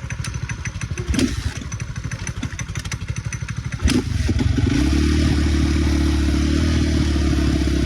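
Dirt bike engine idling with a fast, uneven putter, with a couple of clicks. About four seconds in, the engine note rises to a louder, steady run and holds there.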